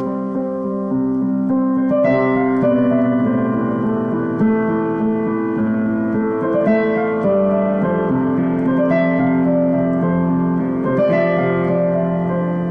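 Solo piano played slowly, soft sustained chords changing every second or two.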